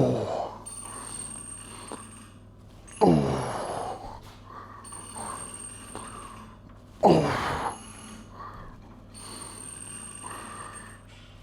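A man groaning with effort on each rep of a weight-training set, one groan about every four seconds, each falling steeply in pitch.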